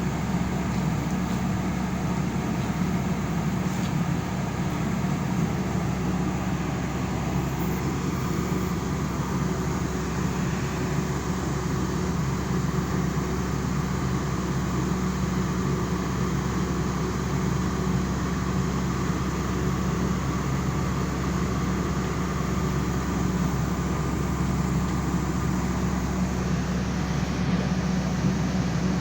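Fishing boat's engine running steadily, a constant low drone with a hum that holds one pitch.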